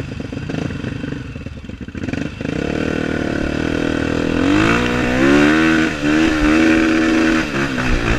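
Trail motorcycle's single-cylinder four-stroke engine running rough and low, then revving up about four and a half seconds in and holding at high revs, with brief dips in pitch near the end.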